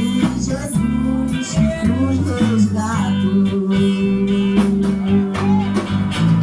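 Live church band playing a hymn between sung lines: electric guitar over a steady bass line with a beat.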